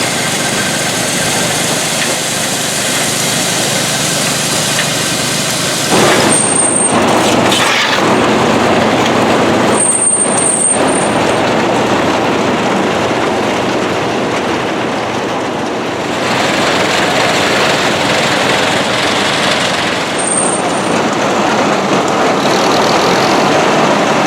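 Vintage farm machinery running: a loud, steady mechanical din that shifts abruptly several times.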